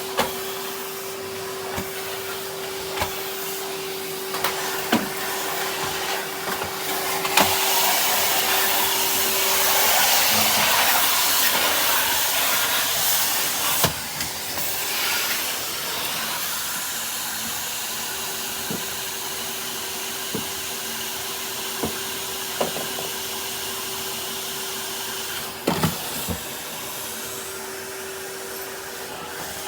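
A Numatic Henry cylinder vacuum cleaner running, with a steady motor whine under a hiss of suction. The hiss swells louder for several seconds in the middle. Scattered sharp knocks come from the nozzle and wand hitting things.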